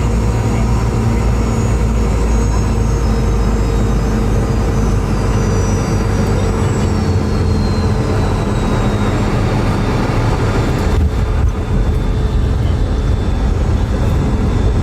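Loud, steady cabin roar of a Boeing 717's rear-mounted Rolls-Royce BR715 turbofan engines heard from the seat right beside them, with a high whine that slowly falls in pitch as the engines wind down on descent. The noise dips briefly about eleven seconds in.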